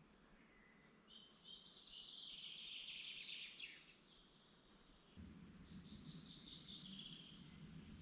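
A songbird singing two long phrases of rapid high notes, the first starting about a second in and the second about five seconds in. A low steady rumble comes in under it about five seconds in.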